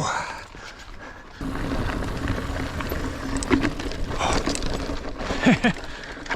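Mountain bike riding along a dirt singletrack trail: tyre rumble and rattling with scattered knocks over the ground, getting louder about a second and a half in.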